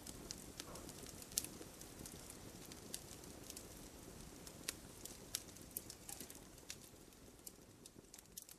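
Wood campfire crackling: a steady low rush of burning, broken by irregular sharp pops. The loudest pop comes about a second and a half in, and the fire grows a little quieter near the end.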